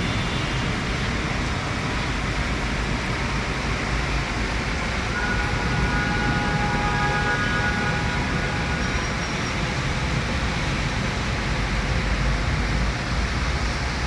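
Steady rushing noise of heavy rain and road traffic, with a deep rumble underneath. A faint held tone sounds for about four seconds in the middle.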